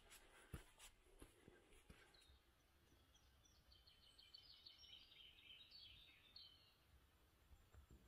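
Faint crackling footsteps on a dry forest path in the first two seconds, then faint birdsong: a quick run of high chirps lasting a few seconds.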